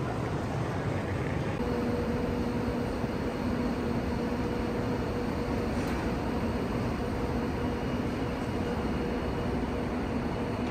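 Steady hum and hiss of an electric train standing at a covered station platform, with a low steady drone setting in about two seconds in.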